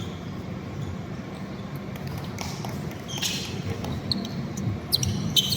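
Basketball game sounds in an echoing gym: a ball bouncing on the court over a steady murmur of the hall, with a few short sharp sounds near the end.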